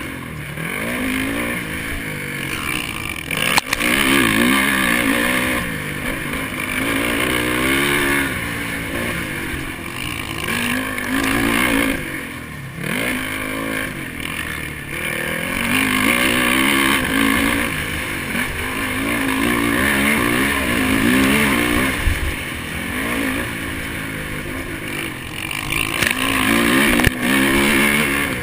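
Honda 450 motocross bike's single-cylinder four-stroke engine running hard on the track, its pitch rising and falling again and again as the throttle is opened and shut, with a brief drop-off about twelve seconds in.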